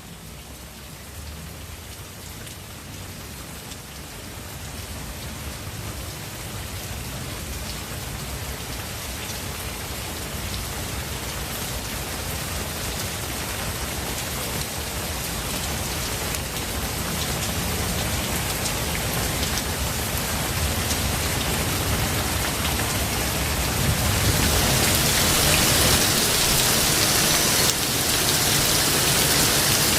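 Steady rain falling on forest foliage, with a low rumble underneath, growing steadily louder throughout.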